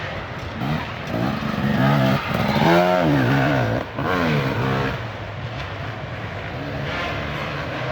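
Dirt bike engines revving up and down, loudest about two to three seconds in, then settling into a steadier run.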